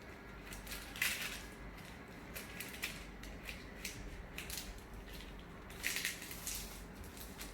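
A sheet of paper being folded and creased by hand, with short rustles and crinkles, the loudest about a second in and again around six seconds in.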